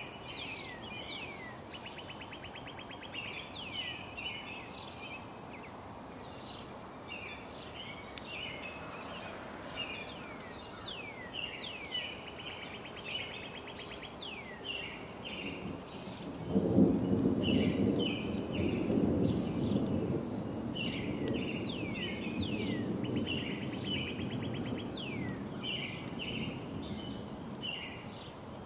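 Birds chirping, with quick falling whistles and short trills. A bit past halfway, a loud rumble of thunder starts suddenly and rolls on, slowly fading.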